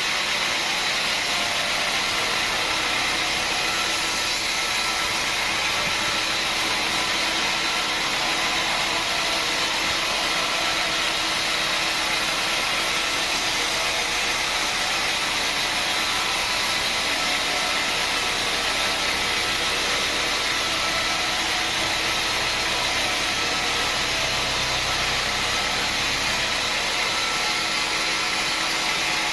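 Sawmill machinery running steadily: an even mechanical noise with faint steady tones and no breaks.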